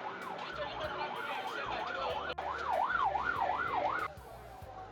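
A siren rapidly sweeping up and down in pitch, about three sweeps a second, that cuts off suddenly near the end.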